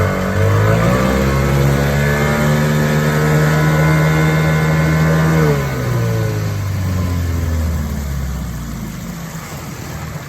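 1976 Evinrude 15 hp two-cylinder two-stroke outboard motor running at high throttle, its pitch rising just after the start and holding steady, then falling about five and a half seconds in as it is throttled back, settling to a quieter, lower idle near the end.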